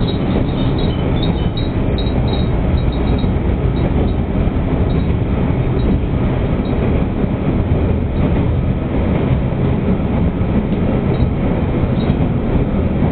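Asa Kaigan Railway diesel railcar running through a tunnel, heard from inside the carriage: a steady rumble of wheels and engine, closed in by the tunnel walls.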